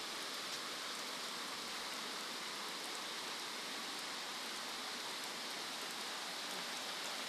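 Steady rain falling, an even hiss with faint drop patter throughout.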